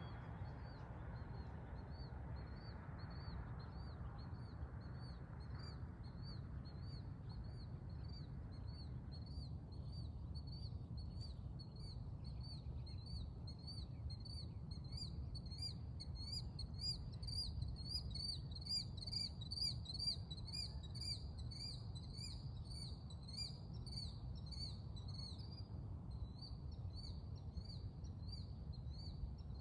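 A bird repeating a short, high chirp over and over, about two or three times a second, loudest from the middle to near the end, over a steady low rumble.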